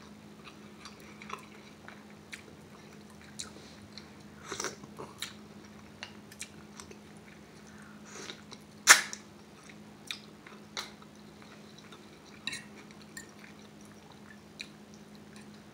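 A person chewing seafood, crab meat and mussels: wet chewing with scattered short smacks and clicks, the loudest about nine seconds in. A faint steady hum runs underneath.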